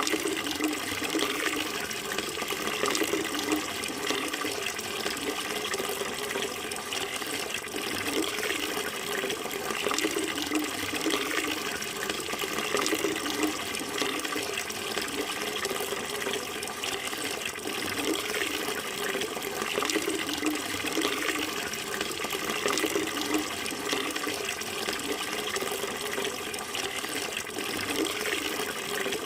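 Running water flowing in a steady, continuous rush with no breaks.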